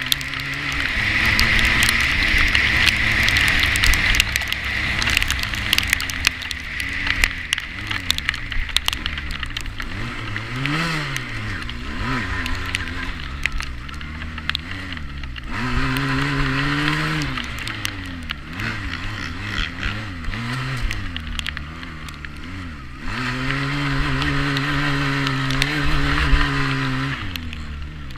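350cc quad bike engine being ridden, revving up and falling back again and again, with two longer stretches held at high revs in the second half.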